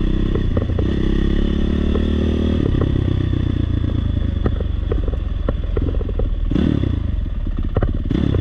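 Dirt bike engine running as the bike is ridden, its pitch shifting with throttle and gear changes, with frequent short knocks and clatter throughout.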